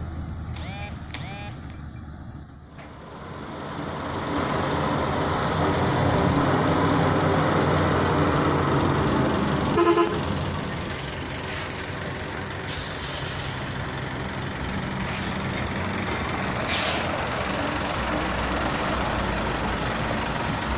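A heavy truck's diesel engine running under load, growing louder over a few seconds early on and then holding steady. A short horn toot sounds about halfway through, and there are a few brief hisses later.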